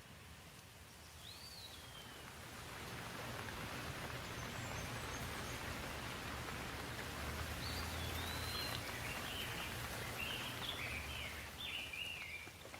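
Steady rain falling, growing louder over the first three seconds and then holding even. A bird calls over it: one downward-sliding whistle about a second and a half in, then a run of short chirps in the second half.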